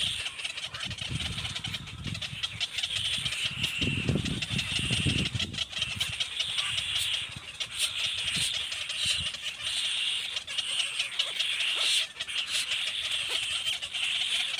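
Baby blackbirds chirping in a continuous high, rattly chatter, with several low thumps in the first few seconds.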